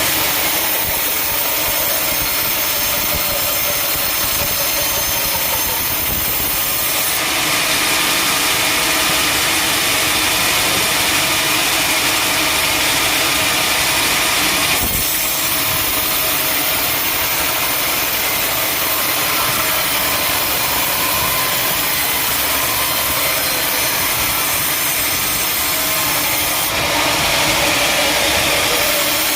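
Sawmill saw cutting through a teak log: a loud, steady sawing noise with the machine's motor running underneath, the sound growing brighter and harsher for stretches about 7 seconds in and again near the end.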